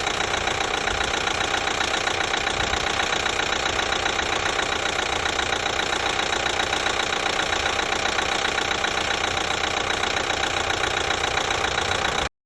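2012 Chevy Equinox 2.4-litre four-cylinder engine running steadily with a fast, even tapping from the top of the engine, a noise that only comes on once it warms up. The owner has ruled out rod knock, and says it is not the new timing chain or the new high-pressure fuel pump. The sound cuts off suddenly near the end.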